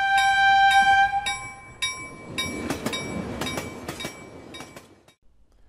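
Train sound effect: a multi-tone train horn held for about two seconds over a ringing bell, then a passing train's rumble with clattering rail clicks that fades away.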